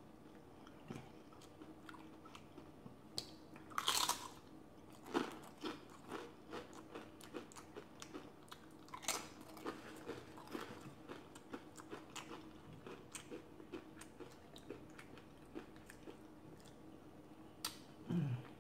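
Close-up chewing of a crunchy tortilla chip dipped in salsa: a run of small crisp crackles, with one louder, sharper crunch about four seconds in.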